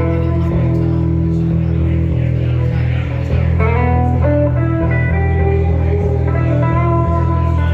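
Guitar music with a steady low bass under a changing run of plucked notes, played without singing.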